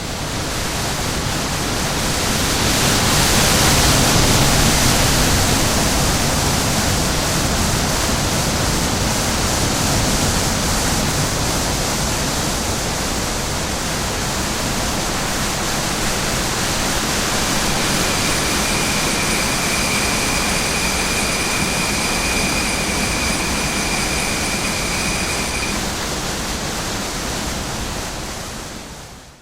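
Steady loud rushing noise that swells a few seconds in. A high steady whine sits over it for several seconds in the second half.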